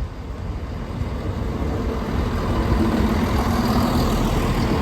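Diesel train engine rumbling at the level crossing, growing steadily louder, with a steady engine tone coming in about halfway through.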